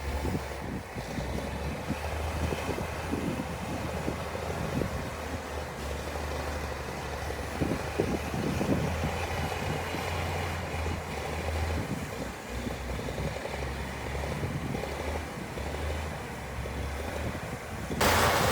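Heavy diesel earthmoving machinery running steadily with a low rumble. Near the end the sound abruptly becomes louder and noisier.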